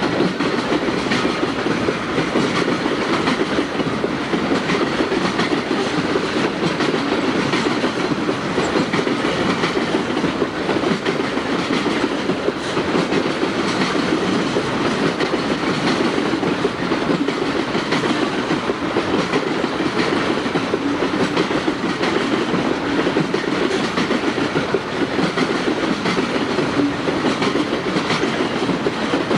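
Tropicana orange juice unit train's freight cars rolling past, their wheels clacking steadily and rapidly over the rail joints.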